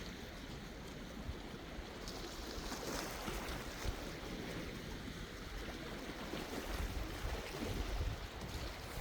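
Sea waves washing in, one swelling up about three seconds in, with low gusts of wind rumbling on the microphone in the second half.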